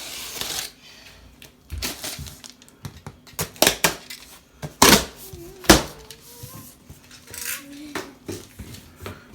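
Rustling of packaging, then scattered clattering knocks as the parts of an inflatable rubber boat kit are handled during unpacking; the sharpest knocks come about five and six seconds in.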